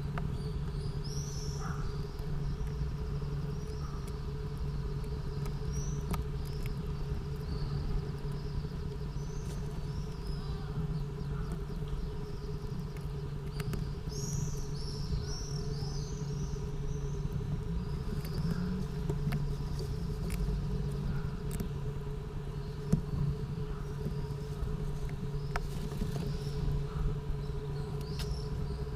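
Several bursts of high, chirping bird calls, thickest about halfway through, over a steady low hum.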